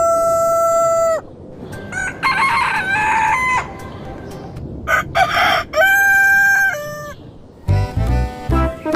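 Rooster crowing twice, each crow ending in a long held note, with clucking in between. Organ-like music starts near the end.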